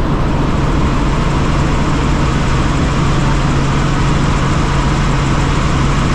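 Helicopter running: a loud, steady drone of turbine and rotor with a constant low hum and a broad hiss above it, holding level throughout.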